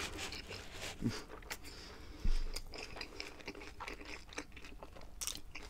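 A person chewing food close to the microphone, with many small wet mouth clicks and a brief dull bump about two seconds in.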